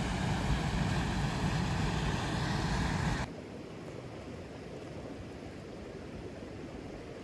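Steady rushing water of a river cascading into a pool, cutting abruptly to a quieter, steadier rush about three seconds in.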